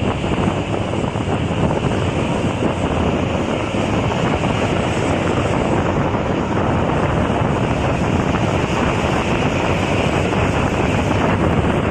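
Steady wind rushing over the microphone, mixed with road and vehicle noise from travelling at speed on a highway.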